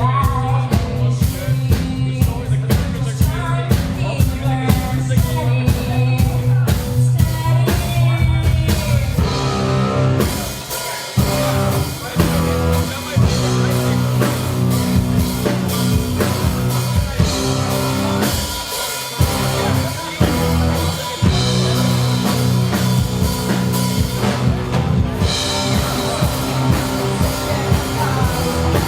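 Live rock band playing: drum kit, singing and a heavy low end, with two brief breaks in the beat partway through.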